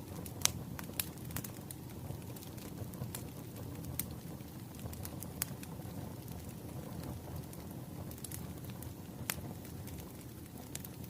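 Bonfire crackling: a steady low rumble of burning with sharp, irregular pops and snaps, the loudest about half a second in and near nine seconds in.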